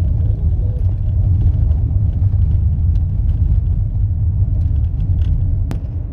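Car driving on an unpaved dirt track: a steady low rumble of tyres and road noise, with one sharp click near the end.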